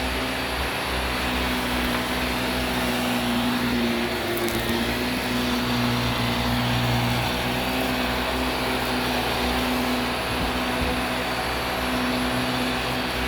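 Vacuum cleaner running steadily: a constant motor drone and airflow with a steady low hum throughout.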